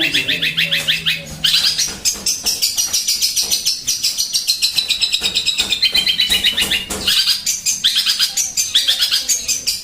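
Eurasian tree sparrow (burung gereja) singing in fast, unbroken chatter: rapid chirps, about ten a second, in runs that slide down in pitch and start again high every second or two.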